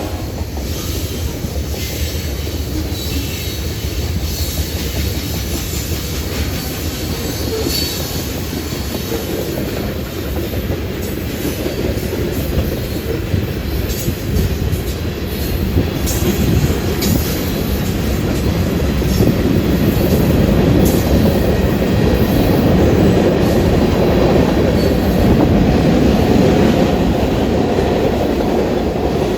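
Union Pacific freight train cars rolling past: a steady rumble of steel wheels on the rail joints with clickety-clack and brief high wheel squeals, growing louder in the second half.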